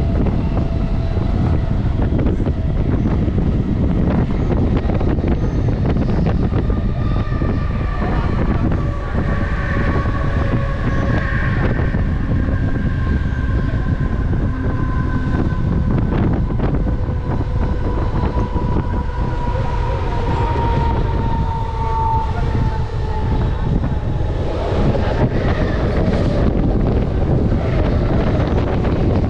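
Mumbai suburban local train running: a steady loud rumble and clatter, with a whine that slowly falls in pitch through the middle.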